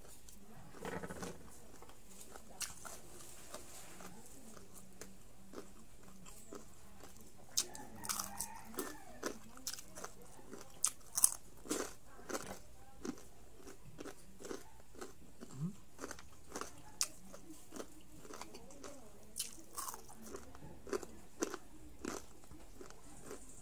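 Close-miked crunching and chewing of crispy deep-fried pork strips, with irregular sharp crunches that come thickest in the middle and again near the end.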